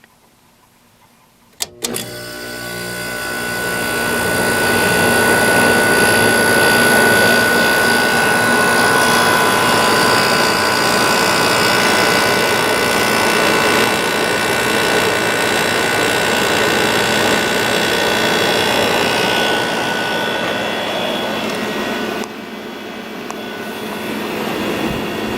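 A 2002 Whirlpool 5,000 BTU window air conditioner switching on with a click, then its Rechi Precision compressor and fan motor starting up and running steadily, a loud hum with a steady whine. The sound builds over the first few seconds and drops a little about 22 seconds in.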